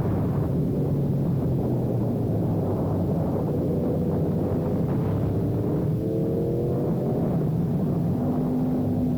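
Sport motorcycle engine running at speed under a steady rush of wind and road noise, its pitch climbing as it accelerates about halfway through.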